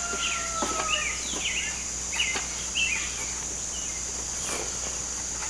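Steady high-pitched insect drone, with a bird's short falling chirps repeating every half second or so over the first few seconds. A few faint knocks come through.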